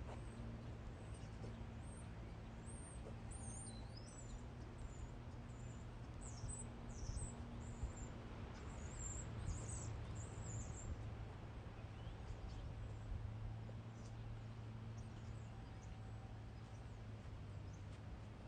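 Small birds chirping and twittering in short, high calls through the first half, over a steady low hum.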